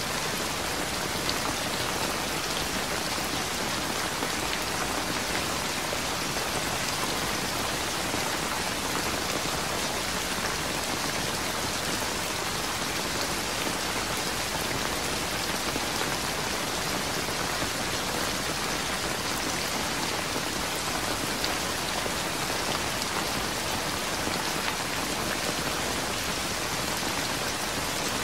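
Rain falling steadily: an even, unbroken hiss of many drops, with no thunder.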